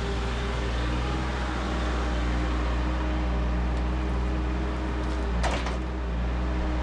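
Engine of a sod-stripping machine running steadily with a low hum, with a brief scrape about five and a half seconds in.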